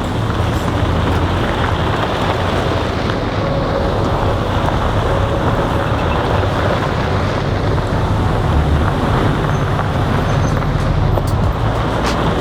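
4WD vehicle driving steadily along a track: a constant low engine drone with tyre and road noise.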